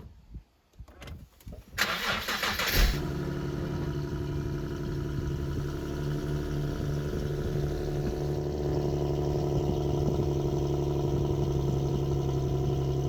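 Infiniti G37's 3.7-litre V6 cranked by the starter for about a second, starting roughly two seconds in, then catching and settling into a steady idle.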